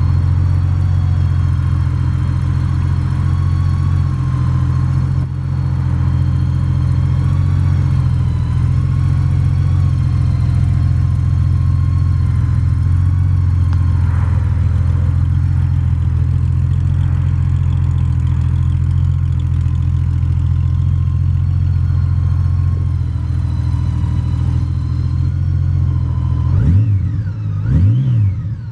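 Honda Gold Wing F6B's flat-six engine idling steadily through a Two Brothers Racing aftermarket exhaust, then blipped twice near the end, the revs rising and falling quickly each time.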